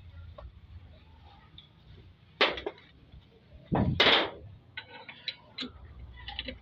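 Two loud knocks about a second and a half apart, the second one louder and longer, followed by several lighter clicks and taps, as parts and tools are handled.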